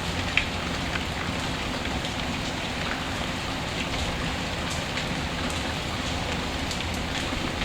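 Steady rain ambience, with scattered sharp ticks through it and one louder pop about half a second in.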